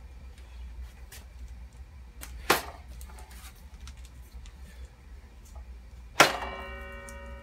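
Two sharp knocks of metal being struck, about two and a half and six seconds in; the second, louder one leaves a ringing metallic tone with several pitches that carries on for a few seconds.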